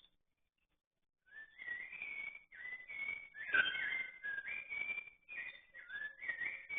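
A songbird singing a string of clear whistled notes that slide up and down in short phrases, starting about a second in.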